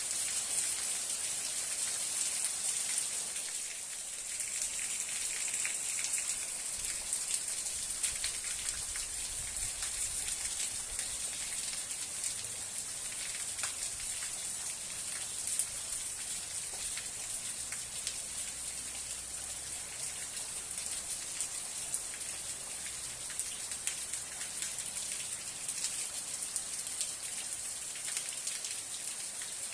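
Steady rain falling: an even, high hiss with many individual drops heard as small close clicks.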